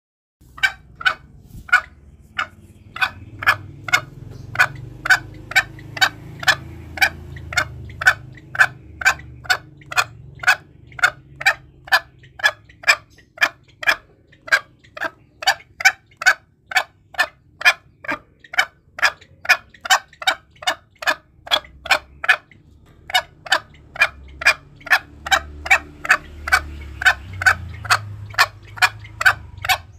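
Green junglefowl calling in a steady run of short clucks, about two a second, over a low rumble, with brief breaks partway through. It is a lure call used to draw in junglefowl.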